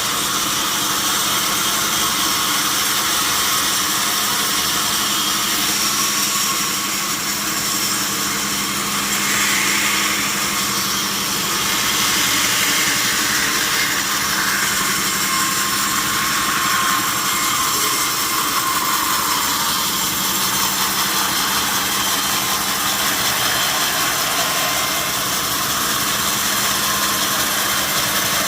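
Sawmill saw running steadily while sawing mahogany timber: a motor hum under a dense, high hiss, with a faint whine that rises and falls in pitch around the middle.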